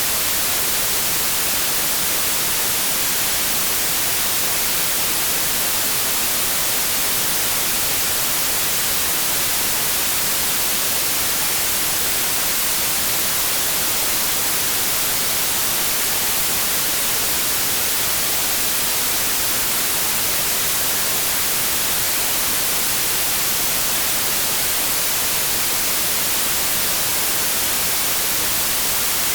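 Steady white noise: an even, unbroken static hiss across all pitches, with no changes.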